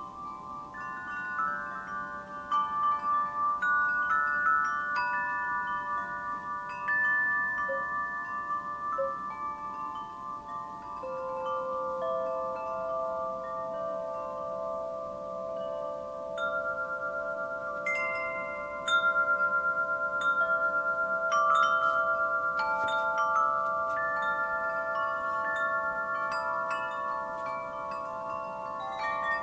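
Wind chimes ringing in a breeze, struck again and again so that many long ringing tones overlap.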